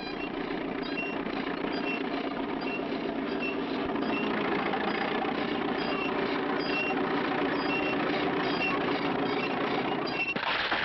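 A steady engine-like drone with a short high beep repeating a little more than once a second, ending in a sudden loud crash about ten seconds in.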